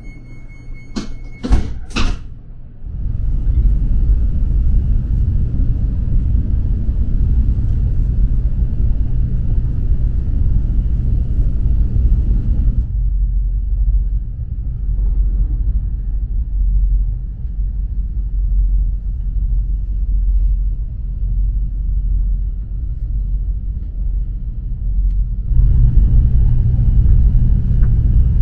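A steady high warning tone stops about a second in and a sliding train door shuts with three quick knocks. Then the KTX-EUM electric train runs with a steady low rumble, heard inside the carriage.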